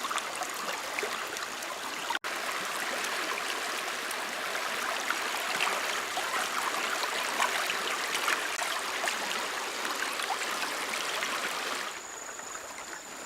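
Stream water running steadily, with scattered small splashes. There is a brief dropout about two seconds in, and the water sound turns quieter near the end.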